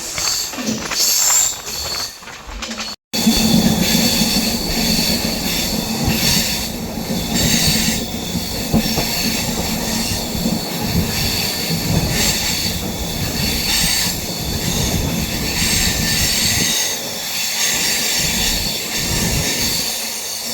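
Poorva Superfast Express running at speed, with steady loud rail noise from wheels and carriages. It breaks off abruptly about three seconds in, then carries on louder.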